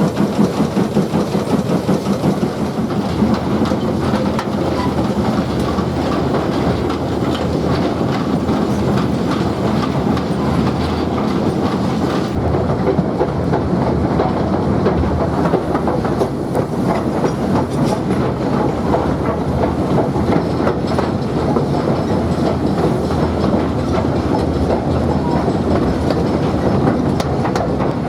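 Train running along the track: a steady rumble and clatter of wheels on the rails.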